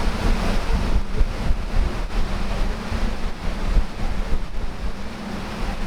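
Wind buffeting the microphone over a steady rush of sea, with a low steady hum underneath.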